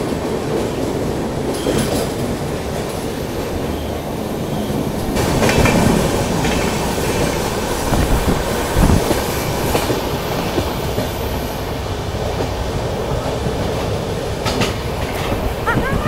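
Mandovi Express passenger train running along the line, heard from the open doorway of a coach: a steady rumble of wheels on rails with a few sharp knocks from the track.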